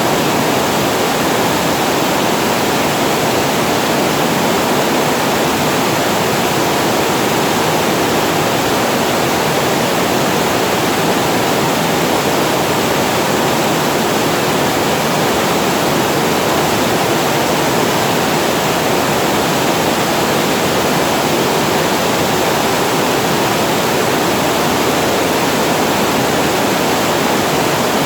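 Water pouring over a reservoir weir and falling as a small waterfall, a steady, unbroken rush with most of its weight in the lower-middle range.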